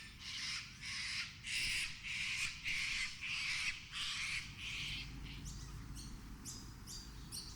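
Sulphur-crested cockatoo screeching: a run of harsh, raspy calls repeated over and over, growing fainter after about five seconds.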